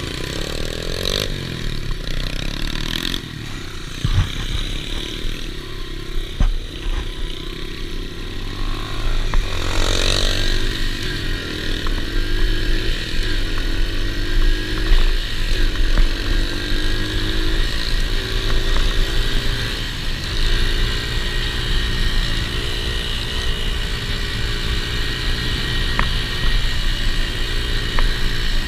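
Dirt bike engine running, its revs rising and falling as it is ridden, with a rise about ten seconds in.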